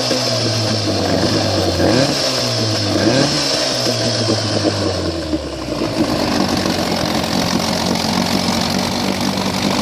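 1960 Elgin 18 hp two-stroke outboard motor running, its revs blipped up and down several times. About five and a half seconds in it is throttled back and settles into a steady idle, just after points, magneto and throttle cable were set up.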